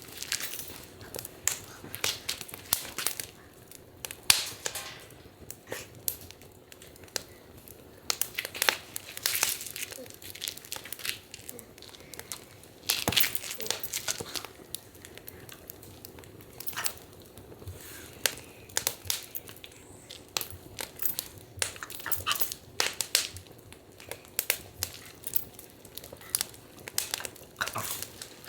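Wood fire crackling in a fire stand, with frequent irregular sharp pops over a faint steady hiss.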